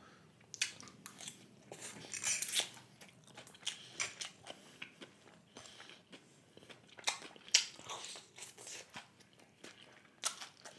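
Close-miked eating sounds: a person chewing and biting chicken garlic noodles, with irregular wet mouth clicks and small crunches.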